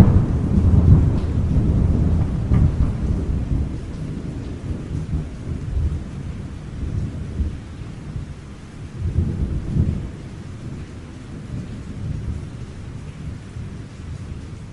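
Thunder rumbling over steady rain: a loud, low rumble at the start that slowly dies away, then a second, shorter rumble about nine seconds in.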